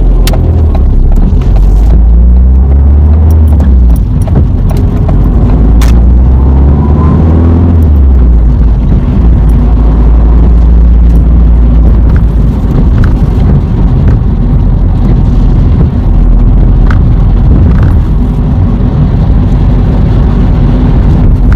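Car driving, heard inside the cabin of a manual-transmission car: a loud, steady low rumble of engine and road noise. The engine note rises about five to eight seconds in as the car accelerates.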